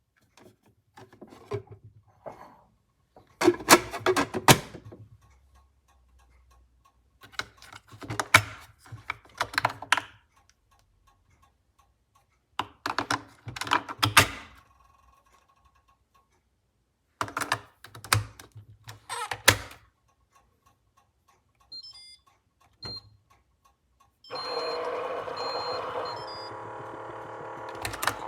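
Plastic clicks and knocks in four short bursts as a single-serve coffee maker is handled and loaded. After a couple of single knocks, the Instant Solo brewer starts a steady hum with a few even tones for the last few seconds.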